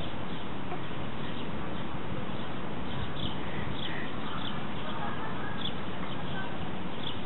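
Faint birds chirping in short, scattered calls over a steady background hiss.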